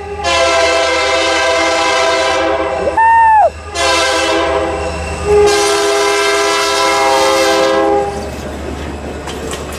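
Diesel locomotive air horn sounding three blasts, long, short and long, as the train passes, over the low rumble of the moving train.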